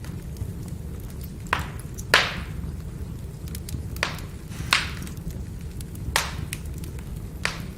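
Firewood burning: a steady low rumble of flame with sharp crackles and pops, about six louder ones among many faint ticks, the loudest about two seconds in.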